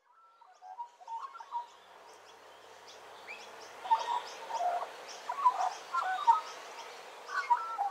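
Birds chirping and calling: many short notes over a faint steady hiss, growing louder about four seconds in.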